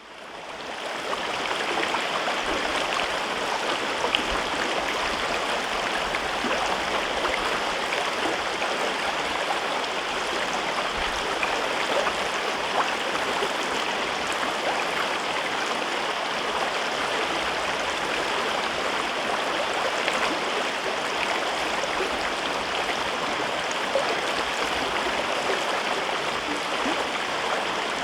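A mountain river flowing through a gorge: a steady, unbroken rush of moving water. It fades in over about the first second, then holds an even level.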